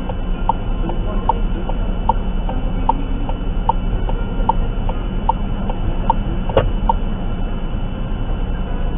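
Car turn-signal indicator ticking evenly, about once every 0.8 seconds, over a steady low cabin drone; the ticking stops about seven seconds in, just after a sharper click.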